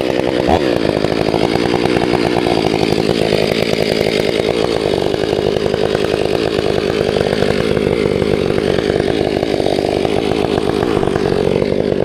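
Two-stroke chainsaw running steadily.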